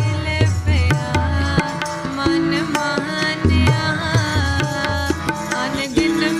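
Instrumental passage of Sikh kirtan music: tabla keeping a steady rhythm with deep bass-drum strokes, under a sustained melodic line that glides between notes.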